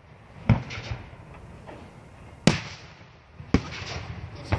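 Aerial firework shells bursting overhead: four sharp bangs spread across the few seconds, with a smaller pop after the first, the loudest about halfway through, each trailing off briefly.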